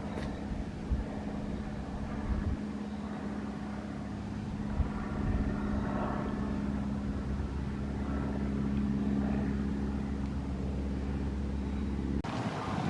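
A motor running steadily: a low droning hum with a deep rumble underneath. It cuts off suddenly near the end.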